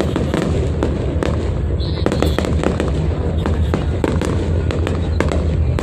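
Fireworks display going off: many sharp bangs and crackles in quick succession over a steady low rumble, with people's voices underneath.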